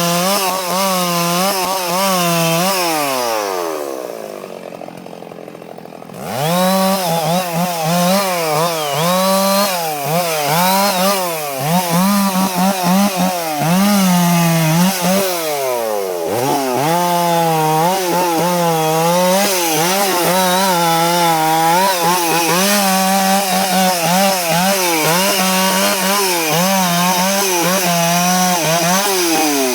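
Stihl 066 two-stroke chainsaw cutting wood at high revs, its pitch wavering as the chain loads up in the cut. About three seconds in it drops back to idle, then is revved up again at about six seconds and cuts on, with a brief dip near sixteen seconds.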